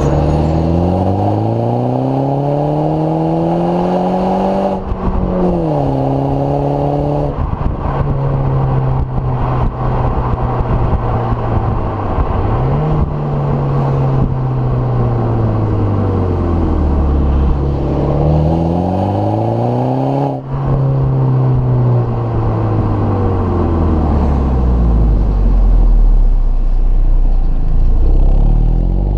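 MINI Cooper S's turbocharged four-cylinder engine and exhaust running under changing throttle. The revs climb, drop sharply about five seconds in, then rise and fall slowly several times, with another sharp drop about two-thirds of the way through and a climb again near the end.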